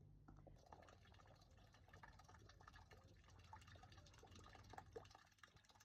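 Near silence, with faint scattered ticks and rustling over a low hum.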